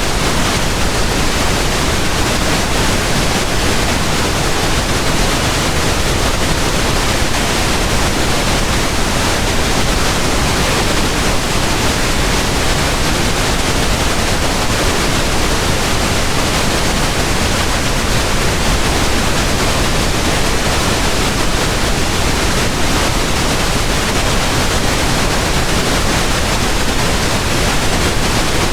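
Steady pink noise: an even, unchanging hiss spread across the whole range, with no tones or events.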